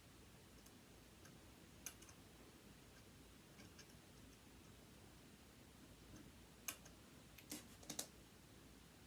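Faint scattered clicks and taps of a screwdriver and small metal parts while a sewing machine motor is taken apart, with a sharper cluster of three clicks near the end.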